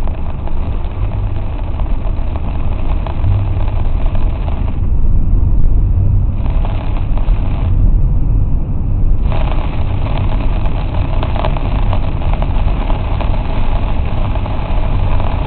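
Inside a moving car in heavy rain: a steady low road and engine rumble under a hiss of rain and wet tyres. The hiss fades twice, for a second or so each time.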